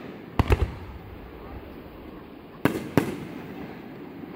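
Aerial firework shells bursting: a quick cluster of three bangs about half a second in, then two more bangs close together near three seconds in, each trailing off in a short echo.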